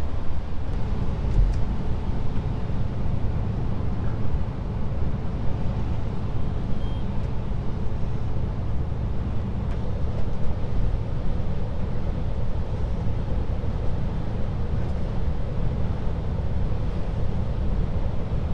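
Scania S500 truck cruising steadily at about 85 km/h on a wet road, heard from the cab as a constant low drone of engine and road noise.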